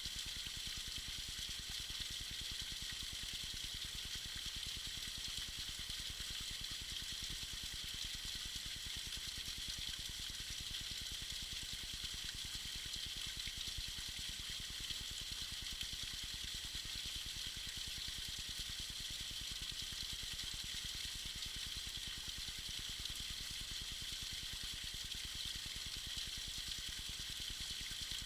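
Small waterfall pouring steadily, a continuous even hiss of falling and splashing water with no breaks.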